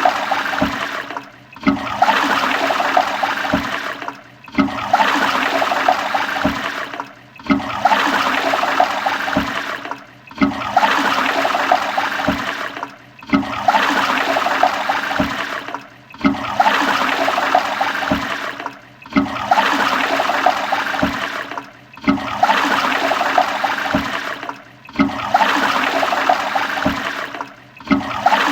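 Toilet flushing, the rushing of water through the bowl repeating about every three seconds. Each flush starts suddenly at full strength and tapers off before a brief gap and the next one.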